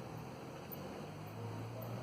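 Steady rain falling in a storm, an even hiss with a faint low hum underneath that swells about halfway through.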